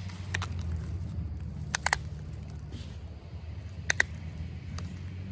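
Onondaga chert point being pressure-flaked with an Ishi stick: about five sharp clicks as flakes pop off the edge, two close together near two seconds in, over a steady low hum.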